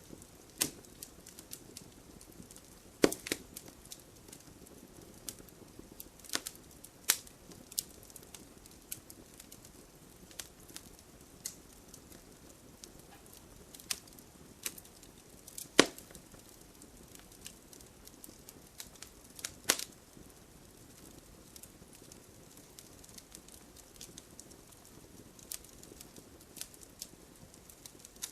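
Wood fire burning in a fireplace: a steady low hiss with scattered crackles and several louder pops, the sharpest about 3, 7, 16 and 20 seconds in.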